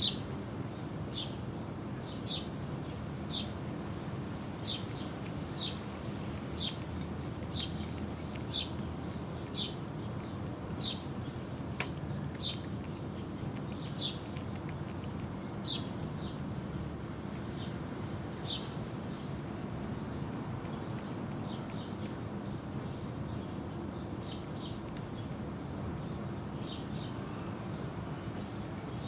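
A small bird chirping over and over, short high chirps about once or twice a second, over a steady low background hum.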